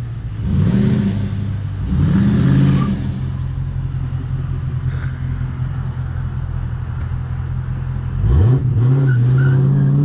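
Car engine revved twice in neutral, each rev rising and falling back, then idling steadily, heard from inside the cabin. About eight seconds in it climbs in pitch again as the car accelerates away.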